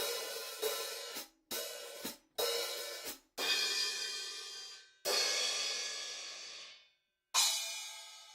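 Drum kit cymbals struck one at a time and left to ring out, about seven hits with long shimmering decays; several are cut off suddenly, and the longest rings for nearly two seconds about five seconds in. Little kick or snare is heard.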